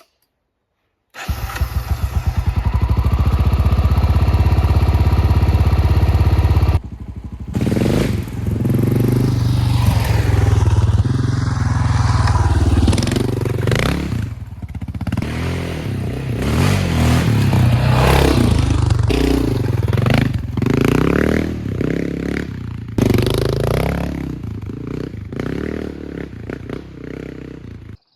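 Honda XR650L's single-cylinder four-stroke engine running loud and steady at a fixed speed, then from about seven seconds in revving up and down repeatedly as the bike is ridden and shifted through the gears.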